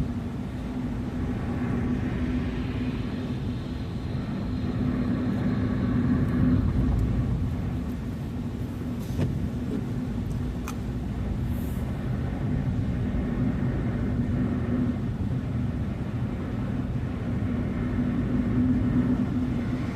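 Car driving along a road: steady engine and tyre rumble with a constant low hum, and a few faint clicks midway.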